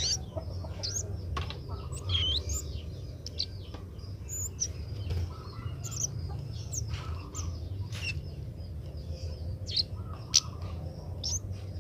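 Kemade bird calls: many short, sharp chirps and quick slurred notes, coming irregularly, over a steady low hum.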